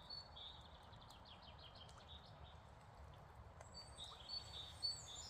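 Small birds chirping faintly: short high calls and a quick trill of repeated notes in the first second and a half, more calls and a falling whistle near the end, over a low steady background noise.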